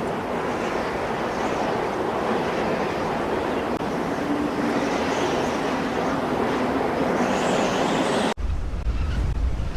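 Leafy tree or bush branches rustling continuously in a dense, even hiss. About eight seconds in it cuts off abruptly and a low rumble begins.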